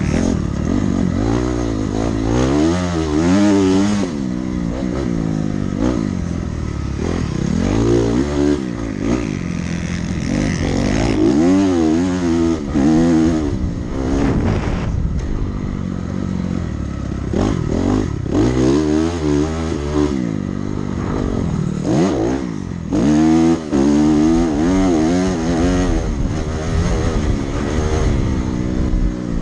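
Dirt bike engine ridden around a motocross track, revving up and dropping off again and again as the throttle opens and closes.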